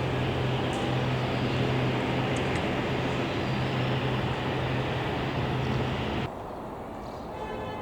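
Antonov cargo aircraft's engines running loud, with a steady low hum under the noise. The sound cuts off abruptly about six seconds in, leaving quieter background noise.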